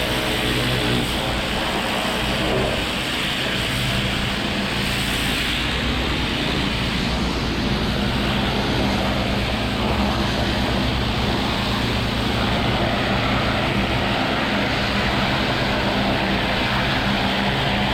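Pressure washer running steadily at a constant engine hum, with the broad hiss of the high-pressure water spray on brick.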